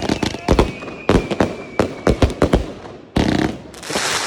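New Year's Eve fireworks and firecrackers going off in a dense, irregular string of sharp bangs. A thin whistle sounds under the bangs through the first half, and a stretch of hissing starts about three seconds in.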